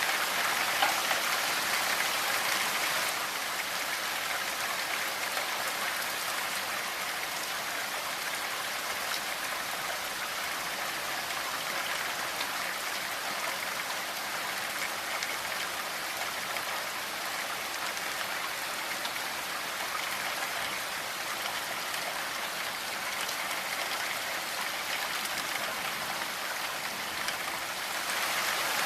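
Steady rainfall, a continuous patter of drops on a surface, a little heavier for the first few seconds.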